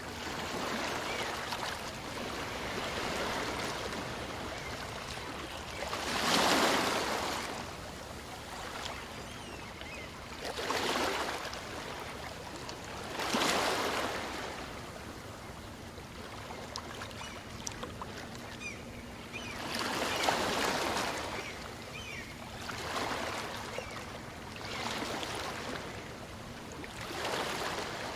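Small waves on a calm sea washing onto a beach, a swell of surf every few seconds with the strongest about six, thirteen and twenty seconds in, over a steady wash of water.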